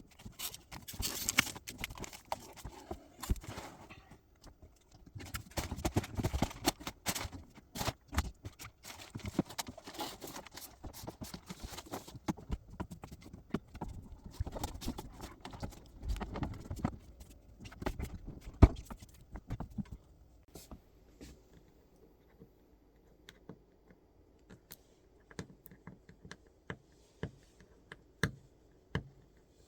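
A stretch of hands-on handling noise: quick knocks, clicks and rustling, busy for about twenty seconds with one sharp knock late in that stretch, then thinning to scattered clicks.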